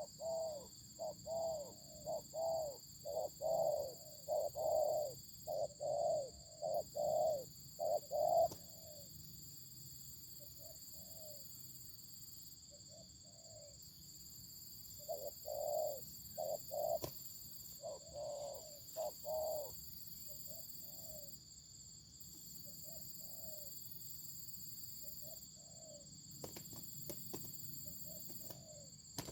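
Doves cooing, a fast series of short coos at about two a second, then scattered coos with pauses between them. This is the call exchanged between a caged decoy dove and a wild dove it is answering.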